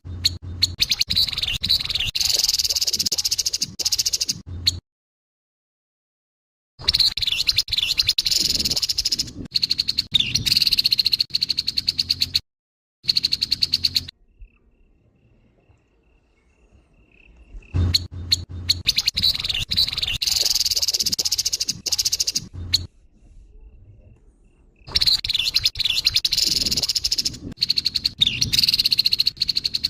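Grey-headed babbler giving harsh, rapid rattling calls in loud bouts of several seconds each, broken by short silent gaps.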